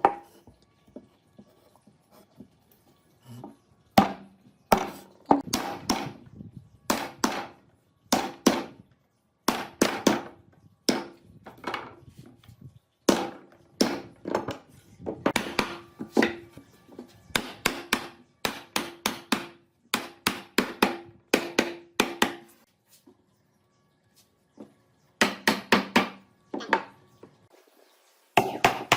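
Hammer striking wood: repeated sharp blows, about two a second, in runs with short pauses, some blows with a brief ringing tone, and a faster run near the end.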